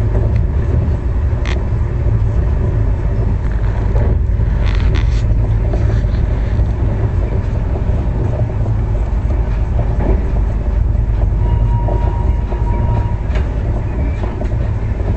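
Indian Railways express passenger train moving along the track: a steady low rumble of the coach's wheels and running gear, with scattered clacks over the rails.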